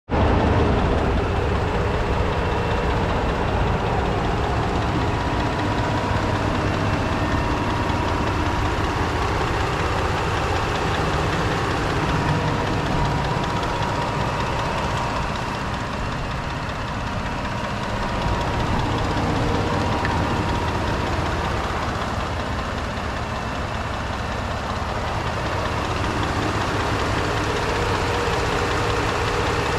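2018 Ford F-150 Platinum pickup's engine idling steadily, heard with the hood open.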